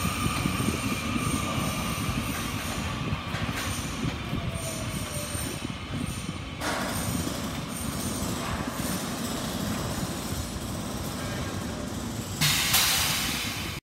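Taiwan Railway TEMU2000 Puyuma electric multiple unit rolling slowly past, with a low rumble and a faint high wheel squeal that fades over the first few seconds. Near the end a loud hiss cuts in for about a second and a half.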